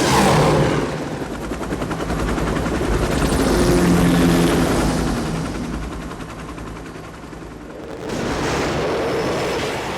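Rapid gunfire with heavy engine noise beneath it, in an action-film sound mix. It bursts in loudly at the start, peaks again about four seconds in, eases off, then swells again about eight seconds in.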